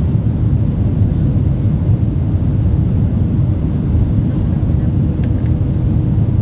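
Steady cabin noise aboard an Airbus A320neo: an even, low-pitched rush of engine and airflow noise with a faint constant hum.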